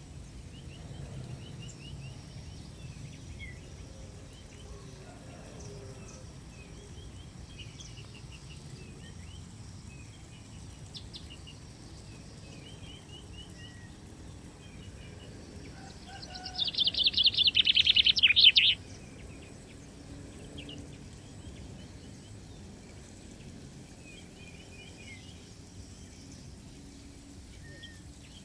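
Small songbirds chirping, with short repeated calls throughout, and a loud burst of rapid chattering notes lasting about two seconds a little past halfway.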